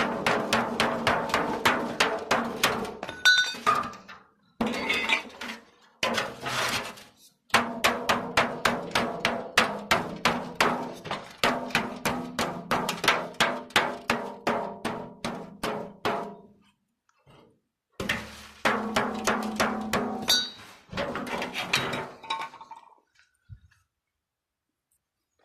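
Hammer blows on ringing steel, about three strikes a second, in several runs that stop abruptly and restart after short silent gaps.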